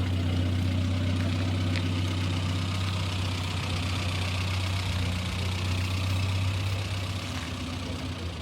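A vehicle engine idling with a steady low hum, a little quieter near the end.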